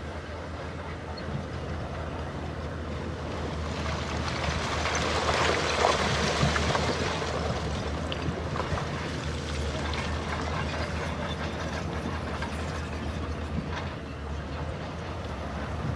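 Heavy earthmoving machinery's diesel engine running with a steady low rumble, louder for a few seconds in the middle with rattling and scraping.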